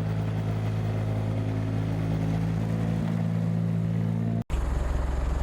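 Vehicle engine running at a steady, even pitch while driving, a low hum with road noise. It breaks off for an instant about four and a half seconds in, then carries on.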